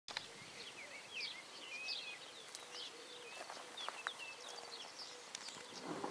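Small birds chirping and singing: many short, quick whistles that rise and fall in pitch, over a faint outdoor background hiss.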